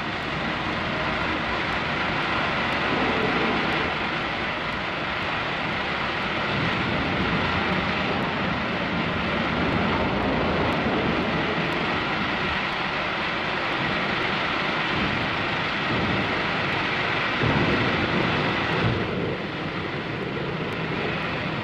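Steam locomotive hauling its train, a steady rumble and hiss heard through an old, noisy film soundtrack.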